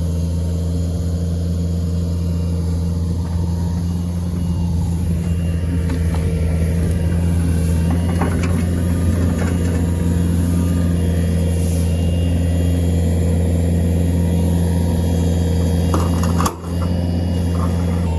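A vehicle engine running at a steady, even pitch, with a brief break about three-quarters of the way through.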